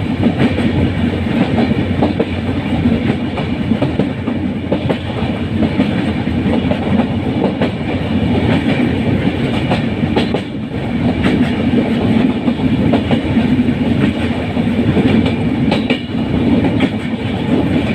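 Train running along the track: a steady rumble with the wheels clicking and clattering over the rail joints, dipping briefly about halfway through.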